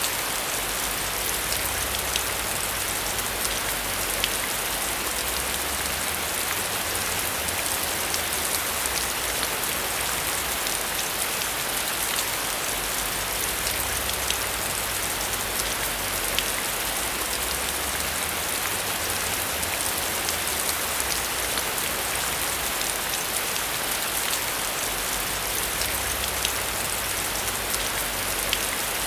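Heavy rain falling steadily, with many single drops ticking sharply through the hiss and a low rumble coming and going underneath.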